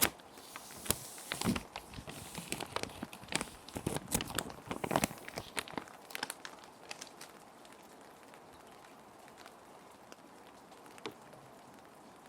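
Plastic sheet protectors crinkling and rustling as they are handled, in quick crackly bursts for about six seconds. After that only a soft, steady rain ambience remains.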